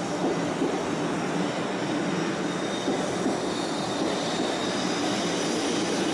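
500 series Shinkansen train running past at the platform edge, a steady, continuous rush of train noise with no clear rhythm.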